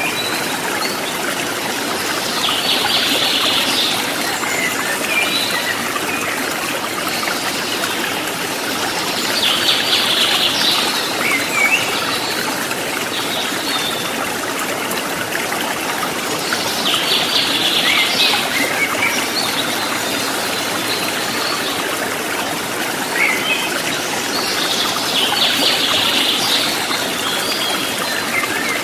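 Running water trickling and splashing steadily, as from a small stream or waterfall. A bird call repeats four times, about every seven or eight seconds, each a short rising note followed by a brief high chatter.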